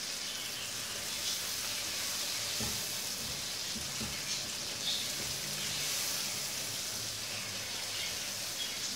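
Green chillies and whole spices sizzling in oil in a nonstick wok just after a splash of water has gone in, making a steady hiss. A silicone spatula stirs them, with a few soft scrapes and knocks.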